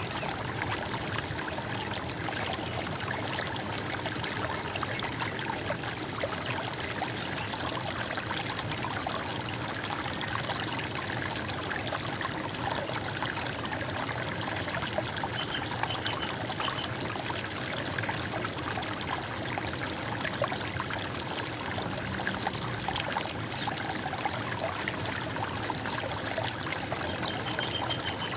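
Running stream water trickling steadily. A bird chirps faintly twice, high above the water.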